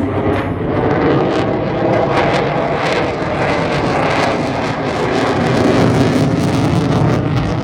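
F-35 Lightning II fighter's single Pratt & Whitney F135 jet engine heard loud during a demo pass: a dense jet roar with a crackle in it, swelling gently and loudest about six seconds in.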